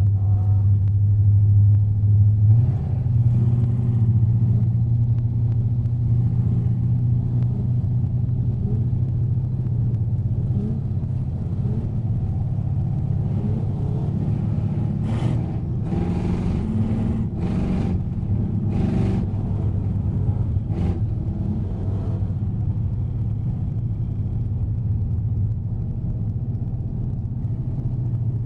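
Race car's engine running hard, heard from inside the cabin while it drives on an ice track; the engine note steps up in pitch a couple of seconds in. A cluster of sharp knocks and rattles comes a little past halfway.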